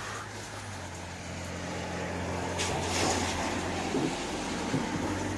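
Steady low hum of a motor vehicle engine, swelling a little after about a second, with a short clatter about three seconds in.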